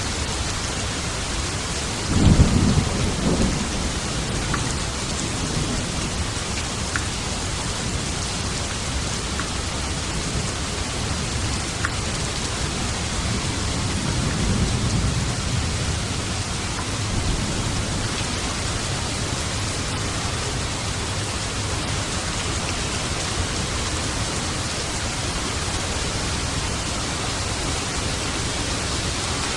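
Steady rain with thunder: a low rumble of thunder about two seconds in, and a softer, longer roll around the middle.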